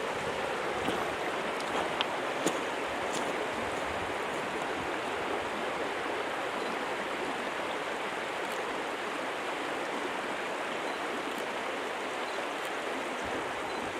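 Small mountain stream running over rocks, a steady rush of water, with a few faint clicks in the first three seconds.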